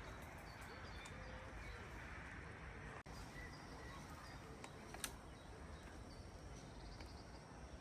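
Quiet forest ambience: a steady low hiss with faint bird chirps and a few sharp clicks, the loudest about five seconds in.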